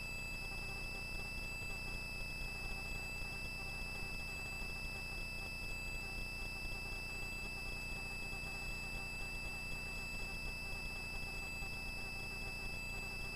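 Faint steady electronic hiss with a thin, high, unchanging whine and a low hum: the idle line noise of a helicopter's intercom recording feed while nobody is talking.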